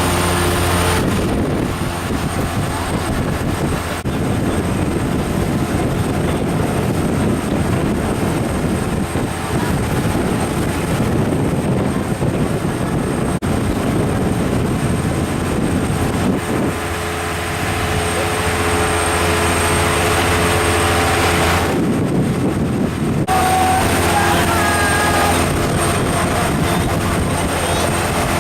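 Boat engine running steadily under way, a low even hum. For long stretches a loud rushing noise covers it.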